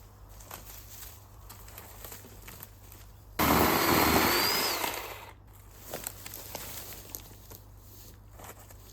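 A power tool runs in one short burst of about two seconds, starting suddenly and winding down, with a high whine. Light knocks and handling sounds come before and after it.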